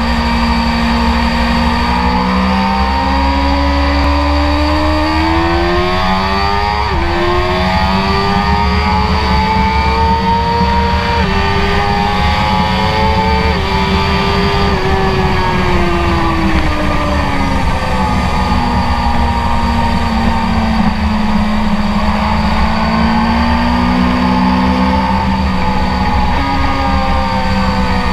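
BMW S1000RR's inline-four engine, heard from onboard, revving hard under acceleration: its pitch climbs and drops sharply at each upshift, four times in the first half. The revs then fall away as the bike slows, climb again, and ease off near the end.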